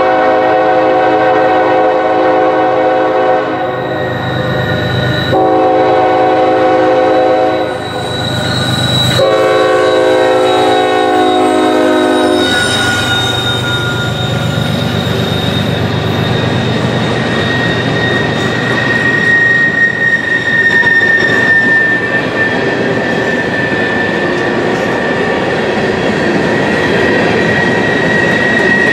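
Diesel locomotive's multi-note air horn sounding three long blasts as a freight train approaches, then the train's bathtub gondola cars rolling past on a curve with a steady rumble and a high, steady wheel squeal that comes in about two-thirds of the way through.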